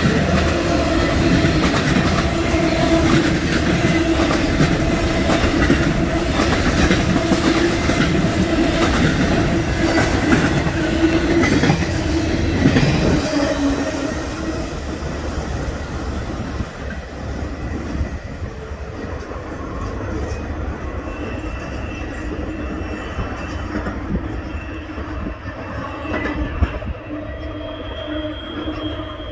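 Norfolk Southern intermodal freight train's container flatcars rolling past close by, wheels clicking over the rails with a steady squeal. Loud for the first half, then quieter and thinner as the train moves away.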